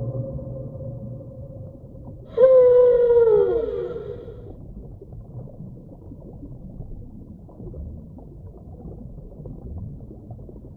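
Whale calls: a held tone fades out at the start, then about two seconds in a loud, rich call slides downward in pitch over a second or so. Low hiss and rumble fill the rest.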